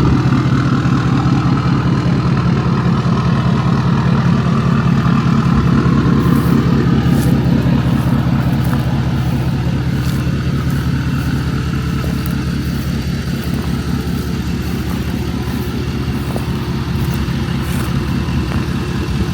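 Ford 6.7 Power Stroke V8 turbo-diesel idling steadily through a 5-inch straight-pipe exhaust, with an even low-pitched pulsing.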